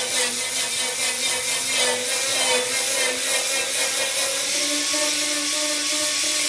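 Power grinder grinding steel on a truck's wheel-arch repair panel, a loud continuous grind whose pitch wavers as the disc is moved around and loaded, so that heat does not build in one spot.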